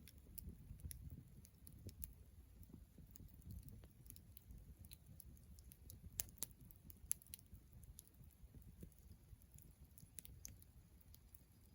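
Wood campfire crackling quietly, with scattered sharp snaps and pops over a soft low rumble.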